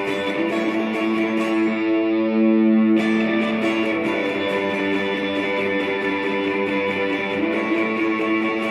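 Electric guitar played through a reverb pedal: long ringing chords that sustain and blur together in an ambient wash, with a new chord struck about three seconds in.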